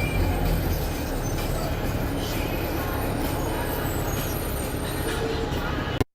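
Blue Bird All American bus engine running with a steady low rumble, amid street traffic noise; the sound cuts off abruptly near the end.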